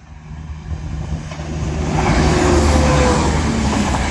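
Northern Class 170 Turbostar diesel multiple unit passing close by at speed. The rush of wheels on rail and the underfloor diesel engines swells from about a second in to a peak that holds for a second or two, with a faint tone dropping in pitch as it goes by.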